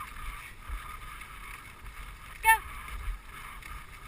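Dog sled gliding along a snow trail behind a running husky team: a steady hiss from the runners on the snow, with one short high squeal about two and a half seconds in.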